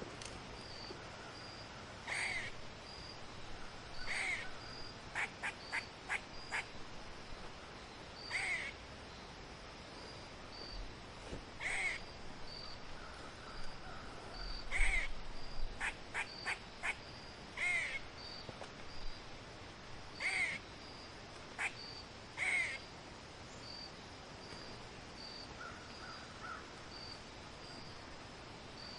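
Bird calls: short loud calls repeating every two to three seconds, with quick runs of brief clicking notes in between, over a faint high note repeating about twice a second throughout.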